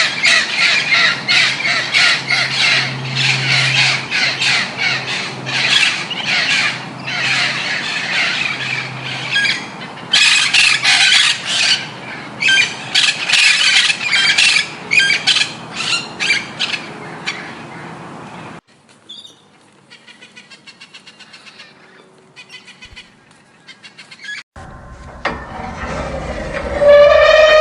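A flock of birds calling in rapid, harsh squawks, cutting off suddenly about two-thirds of the way through. A faint, fast, regular ticking follows for several seconds, then near the end a new loud animal call with a clear pitch begins.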